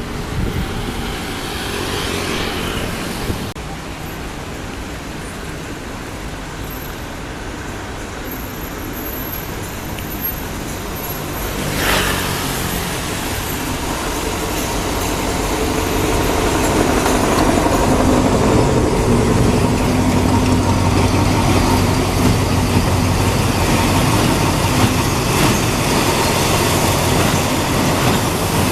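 Diesel train approaching, its engine's low steady hum growing louder from about sixteen seconds in, over a background of traffic noise. A short sharp sound comes about twelve seconds in.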